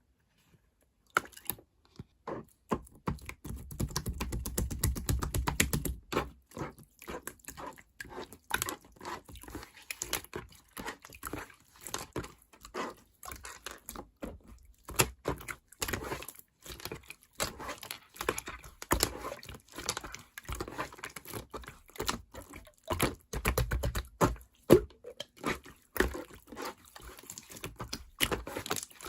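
Clear slime being squished and pressed by hand, starting about a second in: a dense, irregular run of sticky clicks and small pops, with heavier squashing in places.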